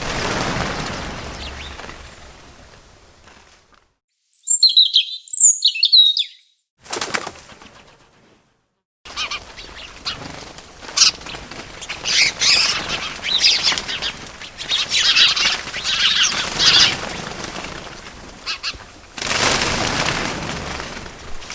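Birds chirping and wings flapping in separate bursts: a whooshing flutter at the start, a loud run of chirps about four seconds in, a long stretch of chirping and fluttering in the middle, and another whooshing flutter near the end, with brief gaps of dead silence between.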